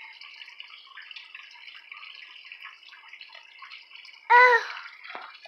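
Steady trickle of water running in the background. About four seconds in comes one short, high-pitched vocal sound from a small child.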